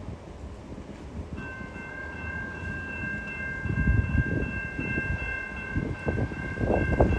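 GO Transit train horn sounding one long, steady chord that starts about a second and a half in and is held, over the low, uneven rumble of the train.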